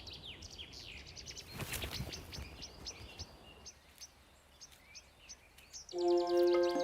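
Small birds chirping with many short, high, quick notes, with a brief rustling burst about a second and a half in. Near the end a sustained musical chord comes in.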